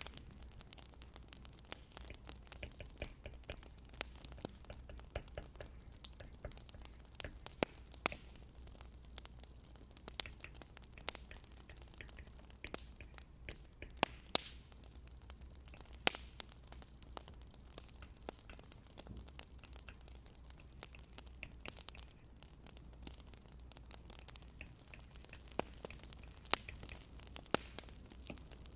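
Wood fire crackling, with sharp pops coming at irregular moments over a faint low hum.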